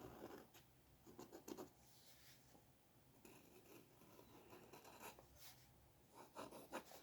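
Faint, irregular scratching of a drawing tool across paper: short strokes in small clusters with pauses between them.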